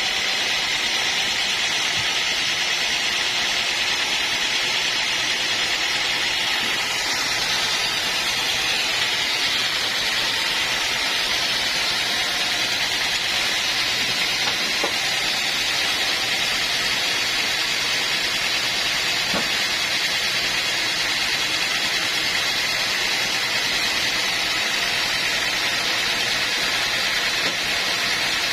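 Steady, even hiss of machinery running, with no breaks or changes in level.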